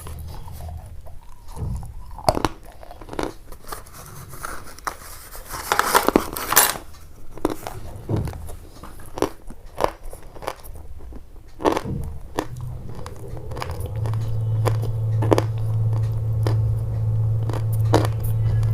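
A run of sharp crunches and clicks, some close together and some spaced out, densest about six seconds in. From about two-thirds of the way through, a steady low hum sets in under them.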